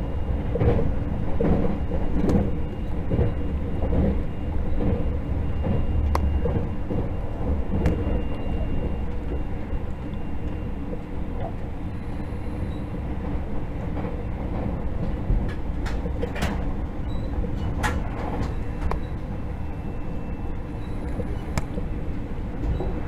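Cabin running noise of a 681/683-series limited express electric train at speed: a steady rumble of wheels on rail with a low hum. The rumble pulses in the first several seconds, and a few sharp clicks come through later.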